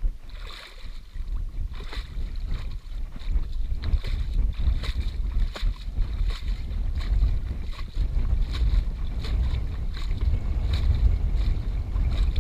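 Wind buffeting the microphone as a steady low rumble, with irregular light ticks and knocks over it.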